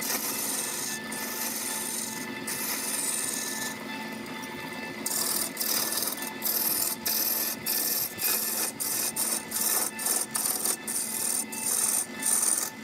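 Wood lathe turning a spindle while a cutting tool on the tool rest shaves the spinning wood, a continuous scraping hiss with shavings flying. About five seconds in the cutting turns into short, even strokes, about two a second.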